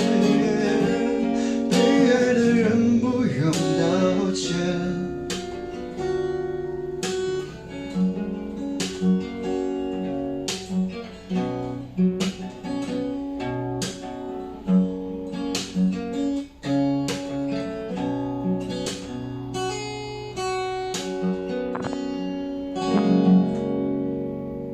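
Acoustic guitar playing a slow outro of plucked notes and chords, with a sung voice trailing off over the first few seconds; the guitar fades near the end.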